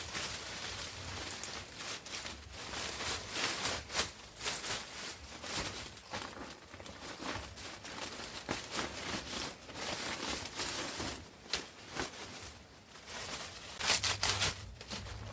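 Continuous rustling and crinkling, with irregular sharp snaps and a louder cluster of them near the end.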